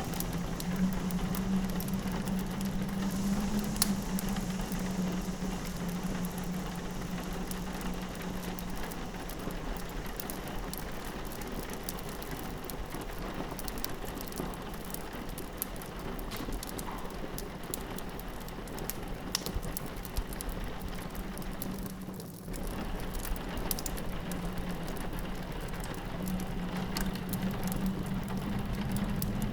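Rain pattering on a window, mixed with a fireplace crackling and a low howl of wind that fades out early on and comes back near the end. A brief dropout about three quarters of the way through.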